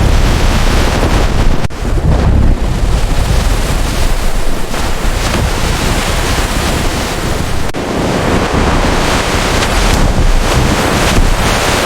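Loud, steady rushing of wind and surf, with wind buffeting the microphone. It breaks off for an instant about two seconds in and again near eight seconds.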